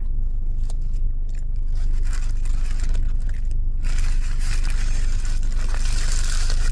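Eating sounds inside a car: crunching and scraping of food wrappers over a steady low engine rumble. A louder hissing rustle runs from about four seconds in to near the end.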